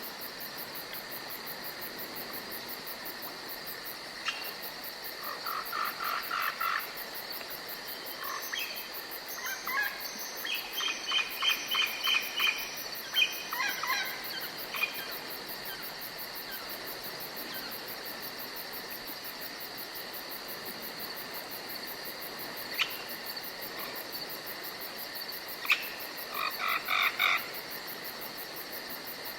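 Forest ambience: a steady high chirring of insects, broken by three spells of rapid repeated animal calls, the busiest about ten to fourteen seconds in and another near the end.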